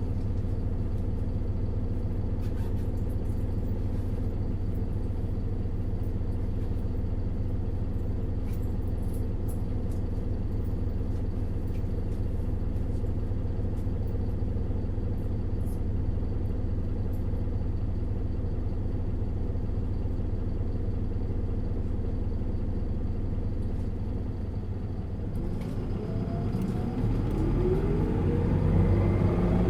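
Isuzu Erga LV290N1 city bus's four-cylinder diesel engine heard from inside the cabin, running steadily under way. Near the end the engine note dips, then climbs in pitch as the bus accelerates.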